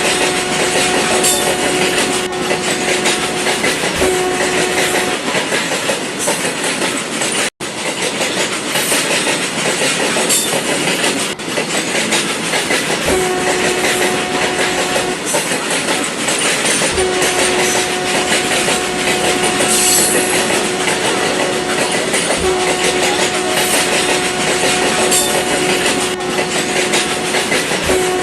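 Model train engine running on its track with a steady rattling clatter, while a single steady horn tone sounds repeatedly, each time for one to four seconds. The sound drops out for an instant about seven and a half seconds in.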